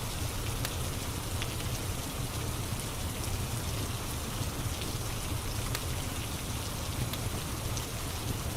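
Steady rain ambience with a few sharp crackles from a wood fire scattered through it.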